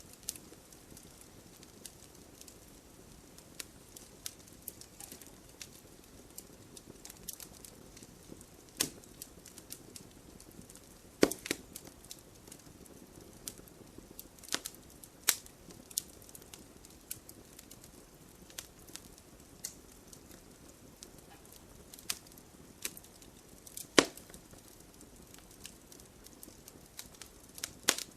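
Wood fire crackling: a soft, steady hiss of burning, broken by irregular sharp pops and snaps. The loudest pops come about a third of the way in, around halfway, and a little after three quarters of the way through.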